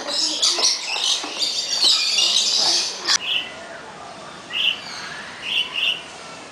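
Many small birds chirping and chattering together for about three seconds, then, after an abrupt cut, a quieter stretch with four short bird calls.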